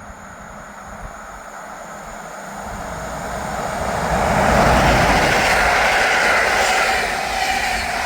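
Train approaching on the line, growing steadily louder over the first four or five seconds and then running loud and steady as it passes close by.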